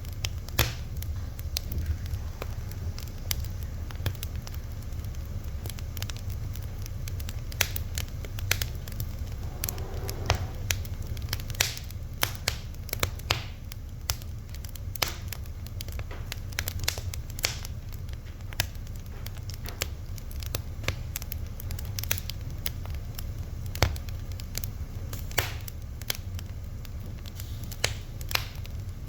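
Fire crackling: irregular sharp pops and snaps, a few each second, over a steady low rumble.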